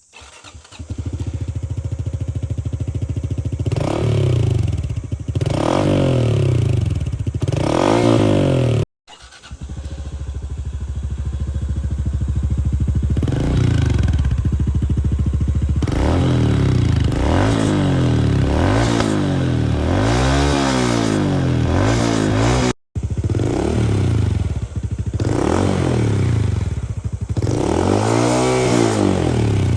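Honda CT125 Hunter Cub's air-cooled single-cylinder engine running through aftermarket exhaust mufflers, idling and then revved in repeated short blips that rise and fall in pitch. The sound cuts off abruptly twice, about nine seconds in and again at about twenty-three seconds, each time resuming as a fresh recording.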